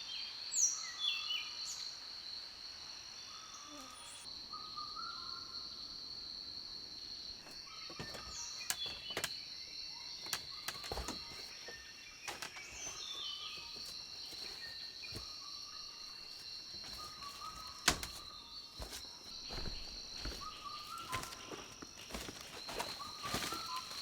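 Rainforest ambience: insects keep up a steady high-pitched drone while birds repeat short falling whistled calls every few seconds. Scattered sharp knocks or clicks come through, the loudest one about three-quarters of the way in.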